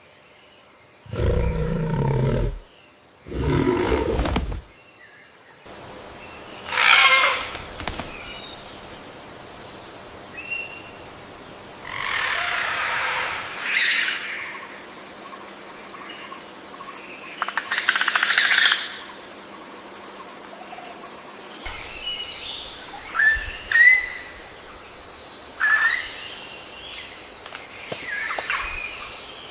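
Bird calls and chirps come at intervals, several with short falling notes, over a steady forest ambience with a high, even hum. Two loud, low, roar-like sounds come in the first few seconds.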